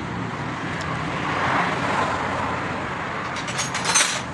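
Motorcycle engine running steadily after its worn bearing was replaced, with a short clatter of clicks near the end.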